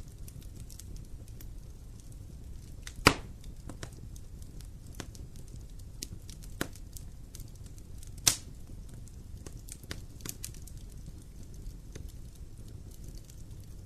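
Campfire burning: wood crackling with scattered small snaps over a steady low rumble. Two loud pops stand out, about three seconds in and again just past eight seconds.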